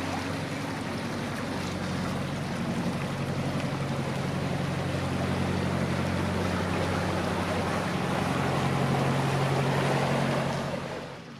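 A motorboat's engine running steadily as the boat passes close by, with water and wind noise; it grows louder toward the end, then drops away sharply.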